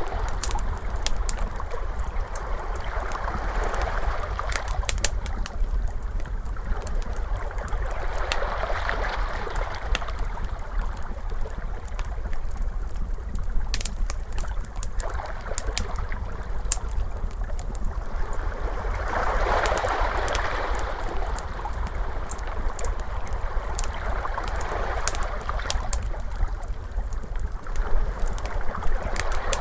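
Wood fire crackling with sharp irregular pops, over ocean waves that swell and wash in every several seconds and a constant low rumble.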